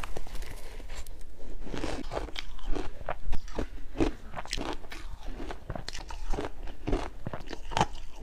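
Shaved ice being bitten and chewed close to the microphone: a steady run of irregular crisp crunches, a few of them louder.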